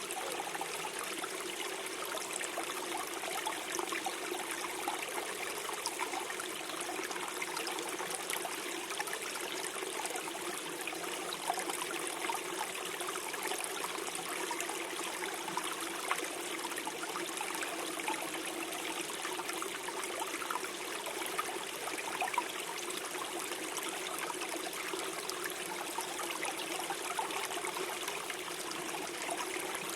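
Gentle forest stream flowing and gurgling, a steady babble of running water.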